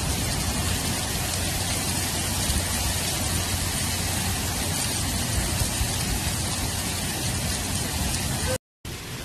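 Heavy rain falling steadily on a wet street and pavement, an even hiss. It cuts out suddenly near the end for a moment, then a similar, slightly quieter rain noise follows.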